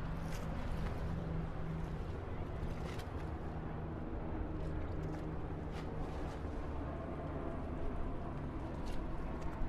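Busy city street traffic: a steady rumble of vehicle engines with a low engine hum, broken by a few short sharp clicks or knocks.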